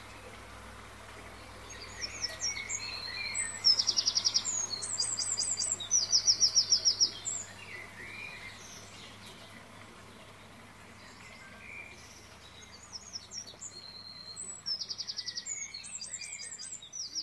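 Songbird singing in two bouts a few seconds apart, each a run of quick high chirps and fast trills.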